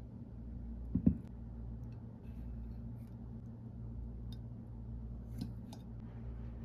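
A steady low hum with one sharp knock about a second in and a few faint light clicks.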